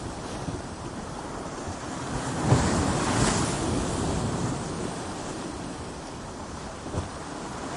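Ocean waves breaking on coastal rocks: a steady wash of surf that swells into one larger crash about two and a half seconds in and then ebbs, with a short sharp thump near the end.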